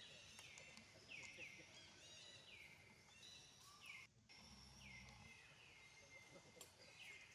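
Faint outdoor ambience in which a bird repeats a short falling call every second or so. The sound cuts out for an instant about four seconds in, then a low rumble follows for about a second.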